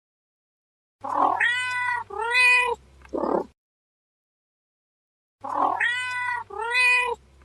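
Domestic cat meowing: two drawn-out meows, with a short breathy sound before and after them. The same sequence is heard twice, with silence between.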